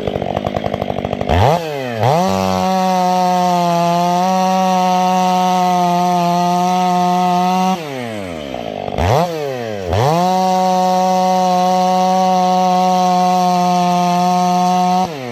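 Two-stroke chainsaw idling, then revved to full throttle and held at a steady high pitch for about six seconds while bucking a log. It drops back to idle, revs up again for a second cut of about five seconds, and falls to idle near the end.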